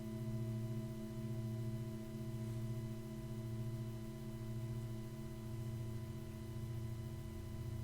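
Sustained ringing drone from a sound-bath instrument: a low hum with several steady overtones above it, swelling and fading gently about once a second.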